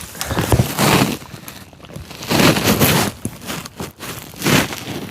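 Strong gusts of wind buffeting the microphone in three or four loud rushes, each lasting about a second.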